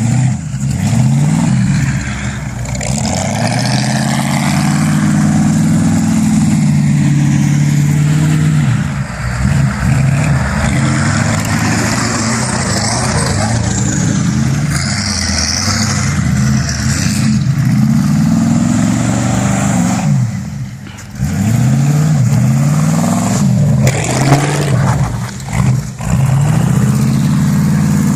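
Pickup truck engine revving hard again and again, its pitch climbing and falling with each burst of throttle, with a steady rushing noise over it. The engine briefly drops off about three quarters of the way through.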